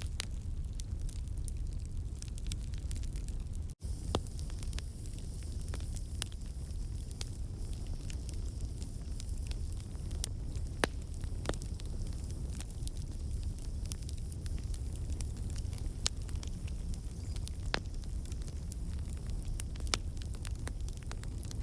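Campfire of burning wood logs crackling, with scattered sharp pops and snaps over a steady low rumble of flames. A split-second gap in the sound comes a little under four seconds in.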